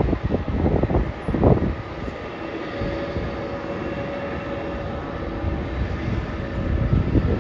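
Jet airliner engines running at a distance: a steady drone with a faint held whine, with low rumbling gusts in the first second or so.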